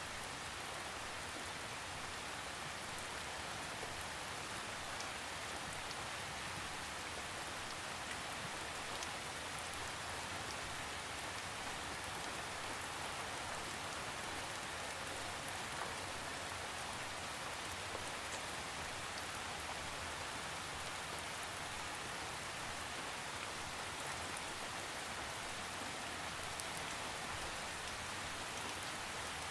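Steady rain falling without thunder, an even hiss of raindrops on a surface.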